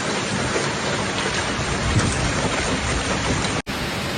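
Heavy rain pouring down in a steady, dense hiss during a severe thunderstorm, with a brief dropout near the end.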